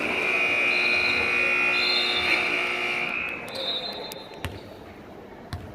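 Gym scoreboard horn sounding one steady blast for about three seconds, then a short high tone and a couple of basketball bounces on the court.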